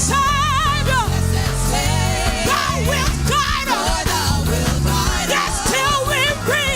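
Live gospel band playing a hymn: a steady low bass-and-drum groove under a high melody line with wide vibrato and runs, with no words.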